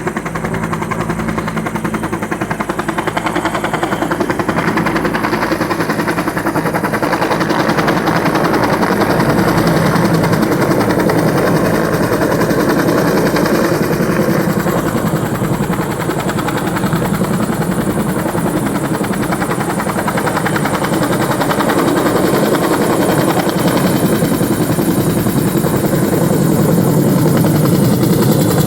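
Cal Fire helicopter running loud and close, its rotor beating steadily, growing a little louder near the end.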